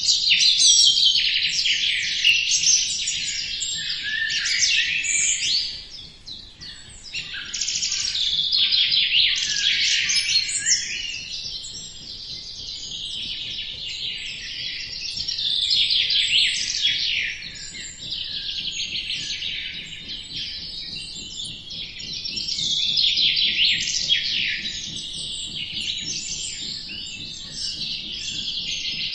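A dense chorus of many small birds chirping and twittering at once, quick high chirps overlapping without a break. The chorus thins briefly about six seconds in.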